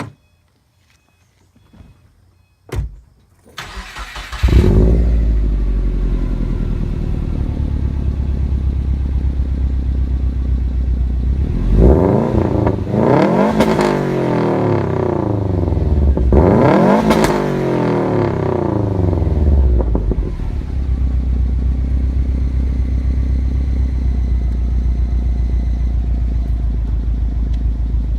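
Turbocharged Subaru flat-four with a catless downpipe, uppipe and Invidia Q300 cat-back exhaust. After a couple of clicks, it starts about four seconds in and idles. It is revved twice, the pitch rising and falling each time, then settles back to idle.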